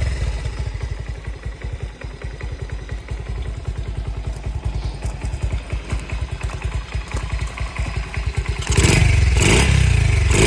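Honda Gorilla minibike's small single-cylinder four-stroke engine idling with a fast, even chuffing after its first start in several days. Near the end the throttle is blipped two or three times, and the engine revs up sharply with each blip.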